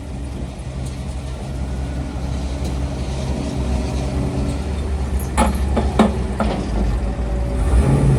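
Gas pickup truck engine running steadily at low revs, with a few sharp clacks about five to six seconds in.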